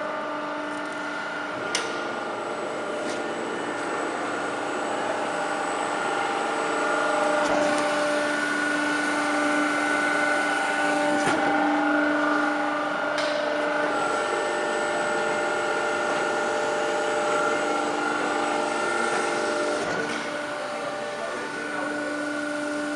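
Factory production machinery running steadily, a hum of several held whining tones that shift a few times, with a few sharp clicks.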